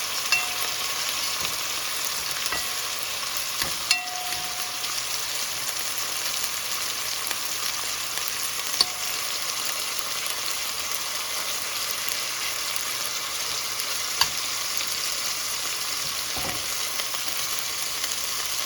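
Chicken pieces sizzling steadily in hot oil in a frying pan, with a few sharp clicks of a utensil against the pan.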